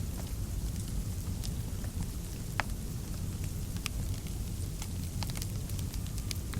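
Wood fire burning in a fireplace: a steady low rumble with scattered sharp crackles and pops, several close together near the end.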